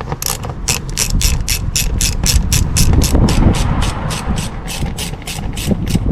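Hand socket ratchet clicking steadily, about five clicks a second, as a bolt is spun out; it is most likely a fastener on the plastic engine under cover.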